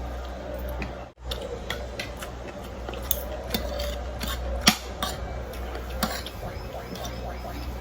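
Cutlery clinking against dishes during a meal: scattered light clicks and taps, with one sharper clink a little past the middle, over a steady low hum.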